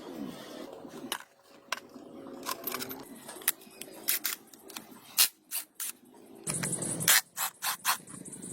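Hand-tool work on metal: scraping and rubbing, then a run of sharp clicks and knocks from about halfway through, with a short hiss near the end.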